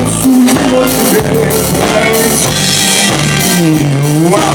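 Live band music with a drum kit and bass under a lead melody line. The melody dips in pitch and climbs back up near the end.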